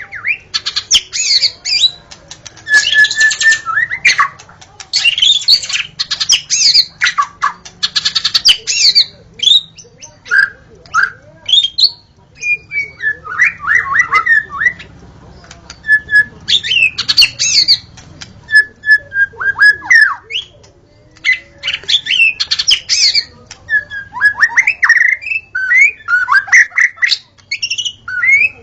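White-rumped shama (murai batu) singing a varied, continuous song: rapid scratchy chattering runs in the first third, then clear whistled notes and sliding whistles, with short pauses between phrases.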